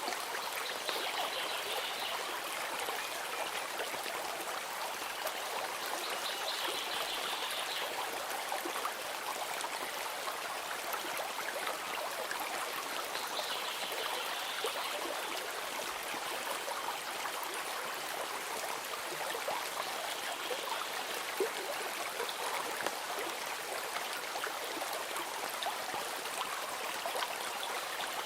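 Steady babbling of a flowing stream, used as a nature ambience track. A faint high trill rises above the water a few times.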